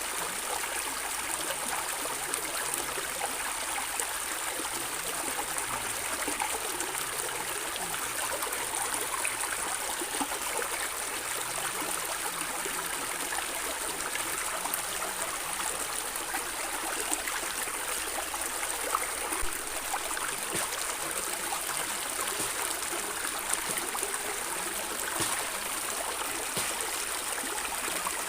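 A stream of water running and gurgling steadily, with fine splashing and trickling throughout.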